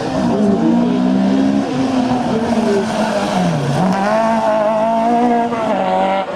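Car engine revving hard on an autoslalom run, its pitch rising and falling with the throttle. The engine drops low about three and a half seconds in, then climbs again.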